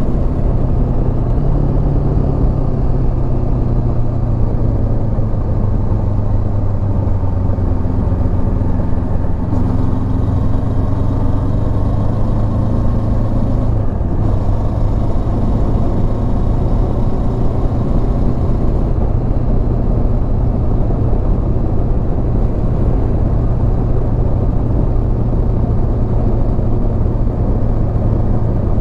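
Honda CB500X parallel-twin engine running steadily while riding, its note shifting slightly a few times, under steady wind and road noise.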